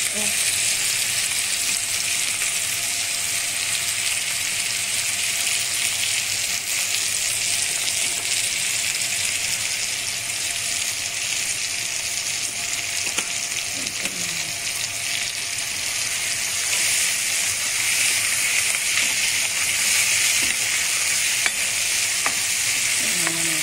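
Chopped tomatoes and onions frying in oil in a non-stick pan, sizzling steadily, with a spatula stirring and scraping the pan near the end.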